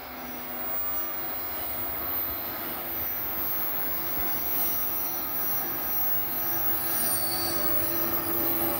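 Bombardier TRAXX P160 AC2 electric locomotive and its passenger coaches running along the platform toward the listener, getting steadily louder as they approach. A high-pitched metallic squeal from the train builds in the second half.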